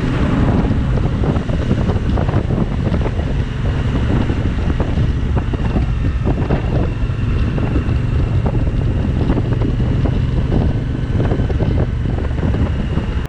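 Wind buffeting the microphone on a moving motorcycle, with the Suzuki V-Strom 1050XT's engine running steadily beneath it; it stops abruptly at the very end.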